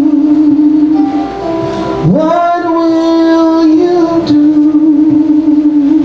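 Music: a woman singing long held notes of a Christian song about hearing God calling, with a new phrase sliding up into its note about two seconds in.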